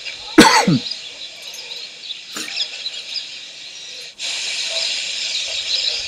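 Outdoor bird sounds: a single harsh call falling steeply in pitch under a second in, and a brief sharp sound about two seconds later. From about four seconds in comes a steady hiss with faint high chirping.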